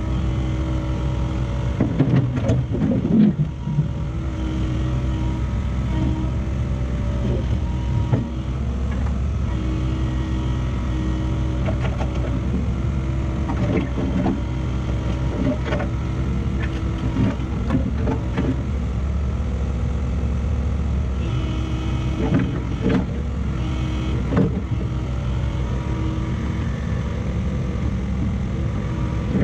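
Heavy diesel engine running at a steady speed, with scattered knocks and clunks.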